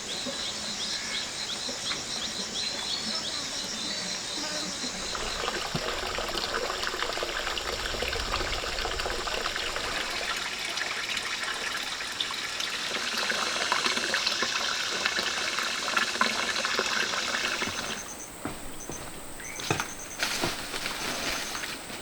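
Water pouring and trickling steadily. It falls away near the end, leaving a few sharp knocks.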